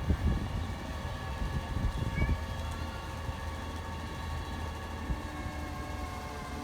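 Rear-loader garbage truck (McNeilus ZR body on a Crane Carrier LET2 chassis) running steadily, with a few knocks and clunks in the first couple of seconds.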